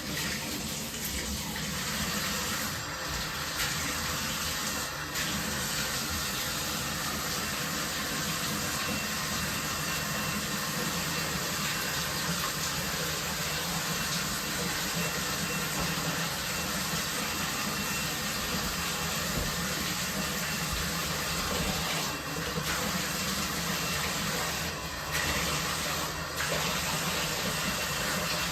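Water running steadily, as from a bathroom tap or showerhead during cleaning or rinsing, with a few brief dips in the rush of the stream.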